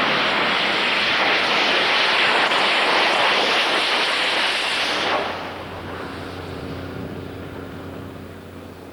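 Bulleid light Pacific steam locomotive and its train running at speed, a loud steady rush of exhaust and wheel noise that drops off suddenly about five seconds in to a quieter steady hum.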